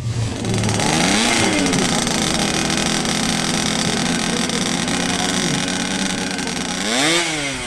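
Motorcycle engine running steadily, revved up and back down twice: once about a second in and again near the end.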